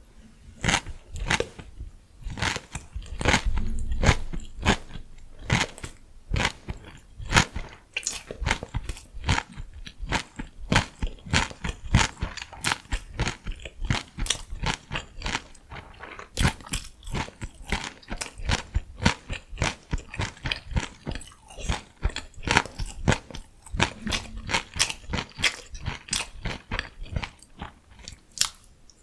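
Close-miked eating: steady chewing with many crisp crunches, several a second, as crunchy vegetables are bitten and chewed.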